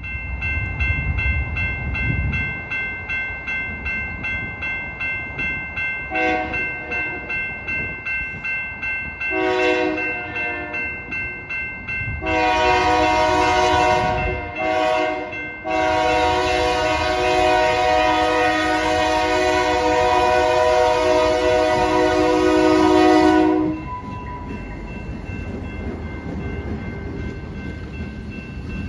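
Railroad grade-crossing bell ringing about twice a second while an approaching diesel freight train's horn sounds for the crossing, long, long, short, long, the last blast held about eight seconds. The horn stops as the locomotives reach the crossing, and the locomotives and freight cars then rumble past, wheels clicking over the rail joints.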